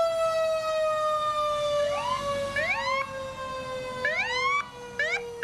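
Emergency vehicle sirens: one long siren tone slowly falling in pitch as it winds down, with short rising whoops from another siren cutting in several times from about two seconds in.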